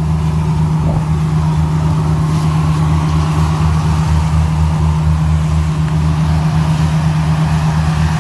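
The inboard engine of a nearly 50 ft Marine Trader boat running steadily underway, a loud, even, low drone.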